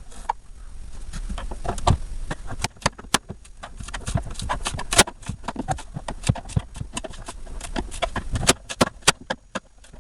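Irregular clicks, knocks and light metallic clatter of hand tools working at a mini fridge's thin sheet-steel case where it is fixed to the plastic body. There are a few sharper, louder strikes about five seconds in and again near the end.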